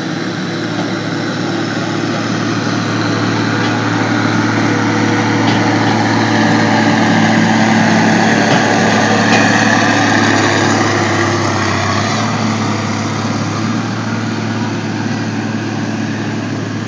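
Truck pull truck's engine running hard under load, growing louder toward the middle and easing off near the end.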